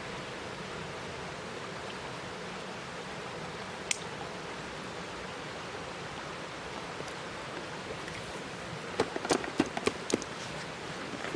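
A steady rushing hiss, with a single sharp pop about four seconds in and a quick run of sharp crackling pops near the end, typical of firewood popping in a campfire.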